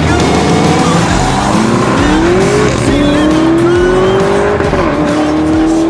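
Lamborghini Urus twin-turbo V8 through an Akrapovic exhaust, accelerating hard. Its pitch climbs, drops back sharply twice at upshifts, then climbs again, with music underneath.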